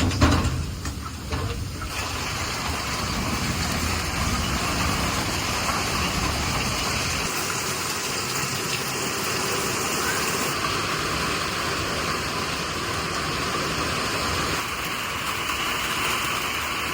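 Steady rain falling, a constant hiss that settles in about two seconds in after a few low knocks.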